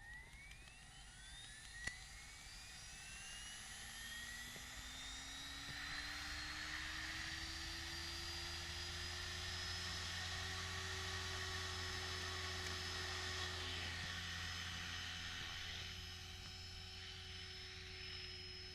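Electric radio-controlled helicopter spooling up: the motor and rotor whine rises steadily in pitch over several seconds, then settles into a steady whine with the rotor hum beneath it, as at hover speed.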